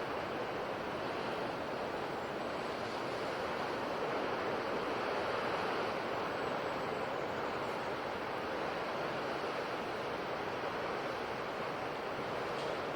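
Sea surf breaking on a shore: a continuous steady wash of waves, swelling and easing only slightly.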